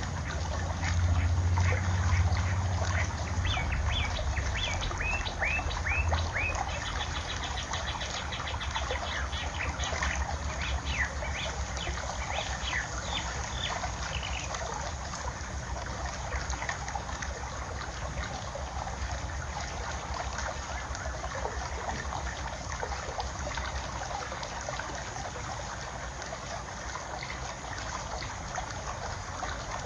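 Water trickling steadily, with small birds chirping in quick runs of short calls through the first half. A low wind rumble on the microphone is strongest in the first several seconds.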